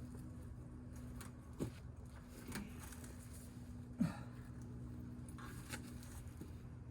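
A steady low machine hum, with a few light knocks and clicks over it; the loudest knock comes about four seconds in.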